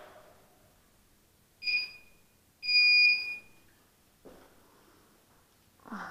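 Quadcopter's onboard buzzer giving two electronic beeps, a short one and then a longer one, after the motors have spun down. A small knock follows, and near the end a thud as the drone is handled.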